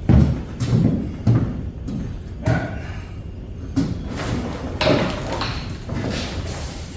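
Irregular thumps and knocks, a few each second at first and then spaced further apart, from someone climbing about in a pickup truck bed and handling the Softopper's frame parts.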